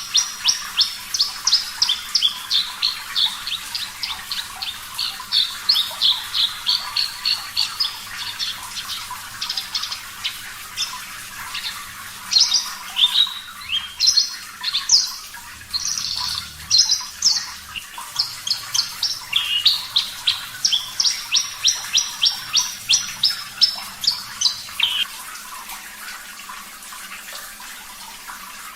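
Javan bush lark (branjangan, parva form) singing a long, fast run of sharp repeated notes, about three a second, with a looser, broken stretch in the middle. A steady background of running water lies beneath it. The song stops near the end, leaving only the water.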